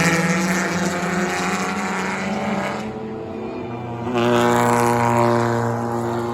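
Engines of enduro race cars running on the oval, steady in pitch. A louder, lower engine comes in sharply about four seconds in.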